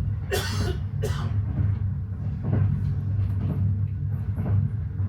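Steady low rumble of a Kenyan SGR passenger train running, heard inside the passenger coach. Two short sharp sounds stand out about half a second and a second in.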